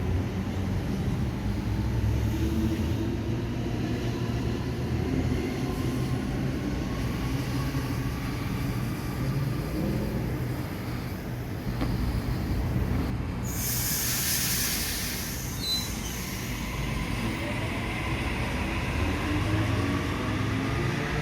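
Electric suburban passenger train on the rails: a steady low rumble of wheels and running gear, with a motor whine gliding in pitch near the start and again near the end. A burst of hiss comes about two-thirds of the way through.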